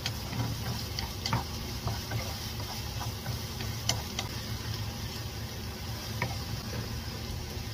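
Chopped onion and garlic sizzling in oil in a frying pan, stirred with a wooden spatula that now and then taps and scrapes against the pan.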